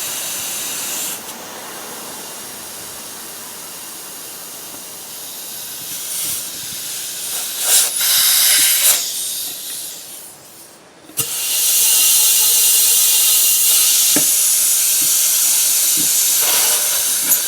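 Compressed air hissing from an air chuck while a lawn tractor tire is inflated to seat its bead. The hiss swells and dips, stops briefly about ten seconds in, then comes back loud and steady.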